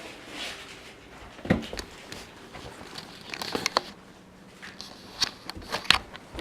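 Scattered light clicks and knocks of small objects being handled, with a brief cluster of quick clicks a little past halfway, over faint rustling.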